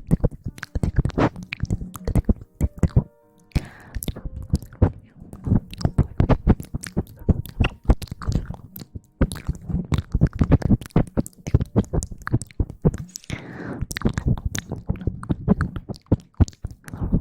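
Close-miked ASMR rustling and scratching: a dense run of irregular crackles and taps, broken by short pauses.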